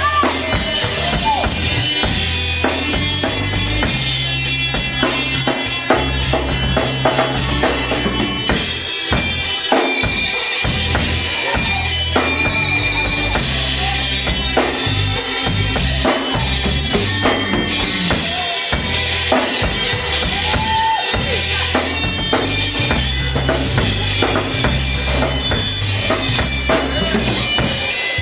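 Gospel quartet band playing an instrumental passage: a drum kit keeping the beat over a bass line, with held higher chords.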